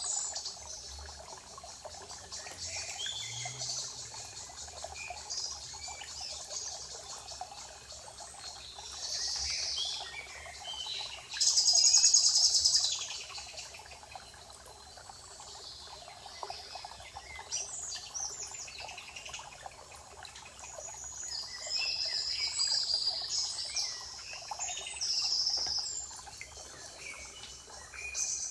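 Spring forest birdsong: several birds chirping and singing at once, with one loud trilled song about eleven seconds in and more loud singing in the last third.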